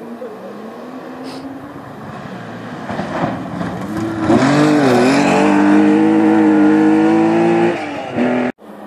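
Rally car coming at speed, its engine getting louder over the first few seconds, then loud at high revs with a brief dip and recovery in pitch, held steady until it drops back near the end and the sound cuts off suddenly.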